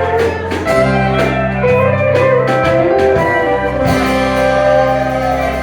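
Live country band playing, with guitar to the fore over drum hits, settling into a long held chord for the last second and a half or so.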